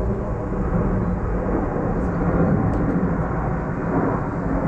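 Display aircraft flying at an airshow: a steady, low engine rumble with no break.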